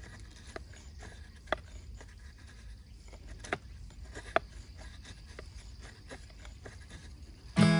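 A few scattered sharp clicks and knocks over a low steady rumble, the loudest about a second and a half in and again past four seconds. Acoustic guitar music starts abruptly just before the end.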